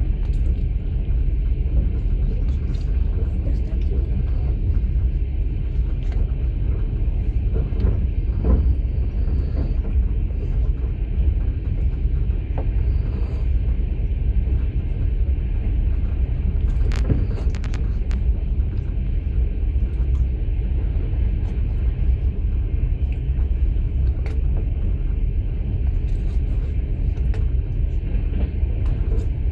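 Inside a moving passenger train's open sleeper carriage: a steady low rumble of the running train, with occasional short clicks and knocks.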